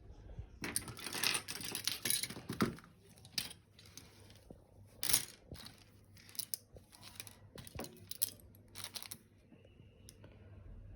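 A run of irregular rustling, crinkling and clicking handling sounds, most dense in the first few seconds, with a sharp louder rustle about five seconds in.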